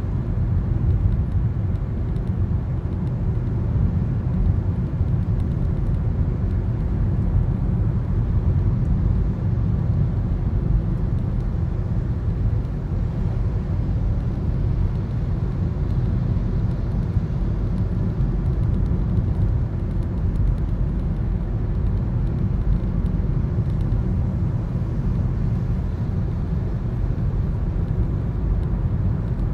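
Steady low rumble of road and engine noise inside a moving Toyota Corolla, picked up by a dashcam in the cabin.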